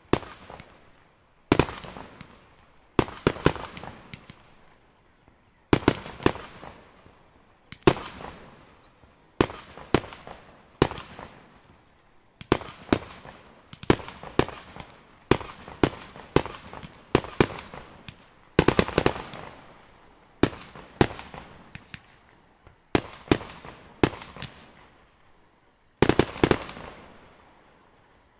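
Aerial fireworks bursting in quick succession: sharp bangs, often two or three close together, about every second or so, each followed by an echoing tail.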